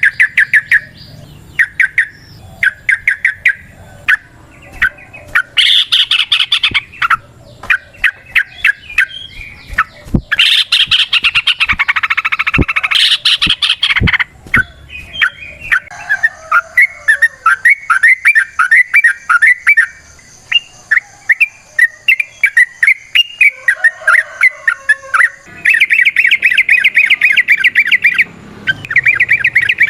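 Yellow-vented bulbul (trucukan) singing: quick runs of bubbling, chattering chirps, turning into a long, very rapid trill near the end.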